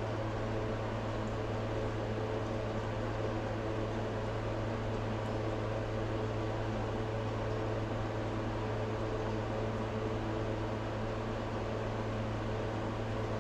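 Steady mechanical hum of a running motor, low and even, with a few faint higher tones over it.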